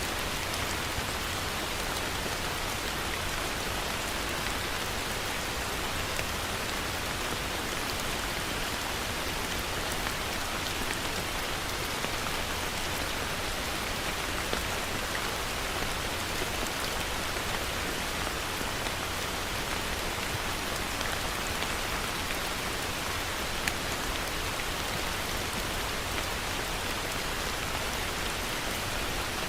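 Heavy rain falling steadily, with scattered sharper drop ticks in the dense patter.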